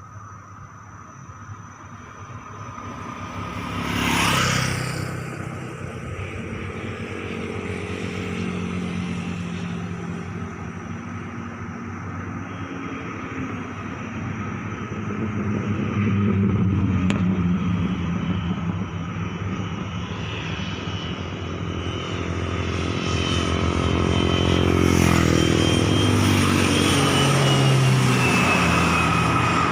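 Pilatus PC-7 Mk II turboprop trainer's engine and propeller droning on approach, growing steadily louder, with a brief rushing swell about four seconds in and a falling high-pitched whine near the end.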